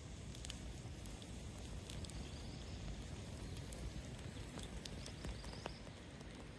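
Wood campfire crackling: faint, irregular sharp pops and snaps over a low, steady outdoor rumble.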